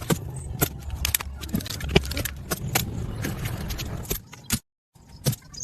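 Irregular small clinks and knocks, like metal or hard objects being handled, over a steady low rumble; the sound drops out completely for a moment a little before the end.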